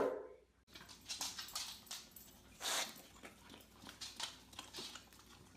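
A dog's bark ending just as the sound starts. After that, only faint scattered ticks and rustles, with one slightly louder rustle about two and a half seconds in.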